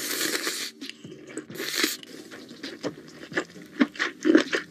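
Close-miked mukbang eating: a drawn-out slurp at the start, then crunchy chewing with many short, sharp crackles that grow louder toward the end.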